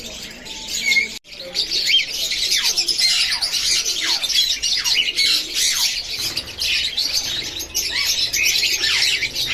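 A flock of small pet birds chirping and chattering together, many quick falling chirps overlapping; after a brief break about a second in, the chatter continues louder.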